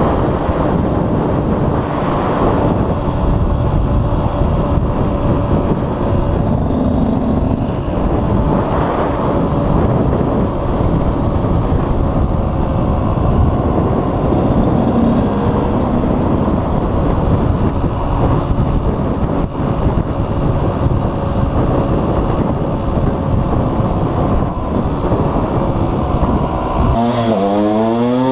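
KTM 125 EXC's single-cylinder two-stroke engine running steadily under way. Near the end it revs up, its pitch rising sharply.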